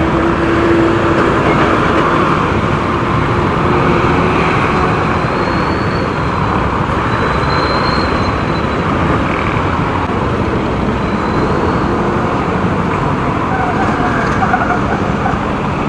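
Steady road noise from riding a motorcycle through traffic: engine, tyres and wind on the microphone, with other vehicles passing.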